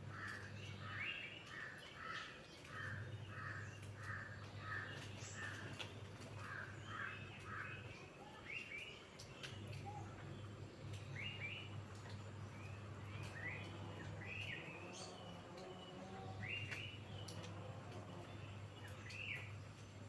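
Birds calling outdoors: a quick run of repeated chirps, about two or three a second, for the first eight seconds or so, then scattered short upward-sweeping chirps. A low steady hum starts and stops several times underneath.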